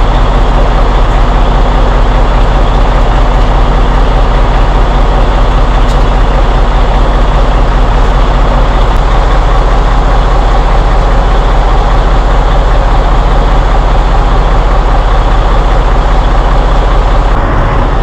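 Semi tractor's diesel engine idling steadily, loud and close, with a low, even drone.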